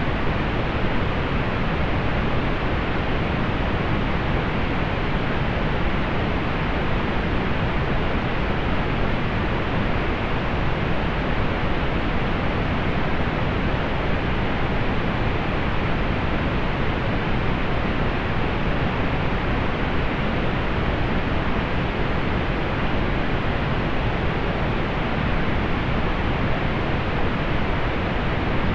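Steady pink noise: an even, unchanging hiss with most of its weight in the low and middle range, rolled off above the treble.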